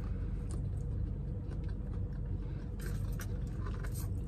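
Low steady hum of a car's idling engine heard inside the cabin, with a few faint clicks and crinkles about three seconds in and near the end.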